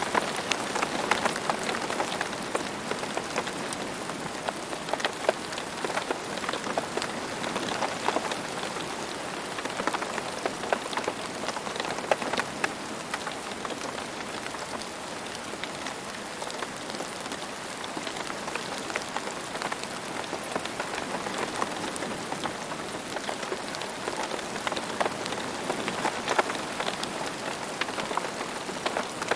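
Steady rain falling on the ground: a dense, even patter with many individual drops ticking through it.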